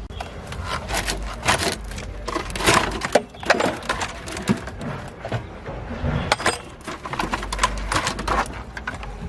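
A rapid, irregular series of knocks and clatters, some in quick runs.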